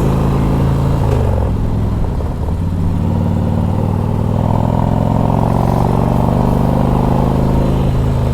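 Harley-Davidson 88 cubic inch fuel-injected V-twin with a loud exhaust, running at low speed. Its note drops about a second in, then holds steady.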